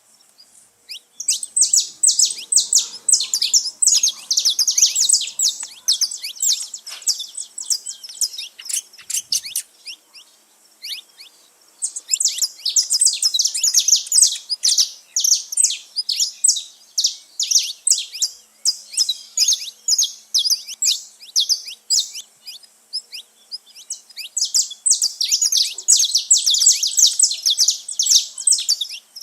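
Saffron finches singing and chirping together: long bouts of rapid, high chirps that come in three waves, with fewer notes in between.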